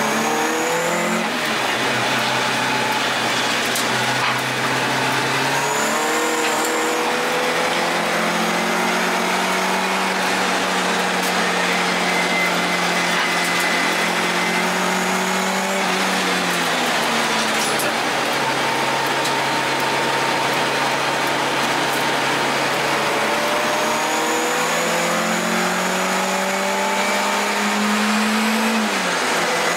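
Toyota AE86's 4A-G twin-cam four-cylinder engine, rebuilt with dry-sump lubrication and on its break-in run, heard from inside the cabin as the car laps a circuit. The revs climb and drop with gear changes and throttle: a drop about a second in, a steady pull, easing off around sixteen seconds in, then climbing again and dropping sharply near the end.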